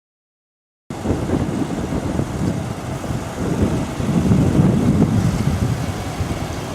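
Storm wind buffeting the microphone: a loud, low rumbling noise that swells and eases in gusts. It cuts in abruptly about a second in, after silence.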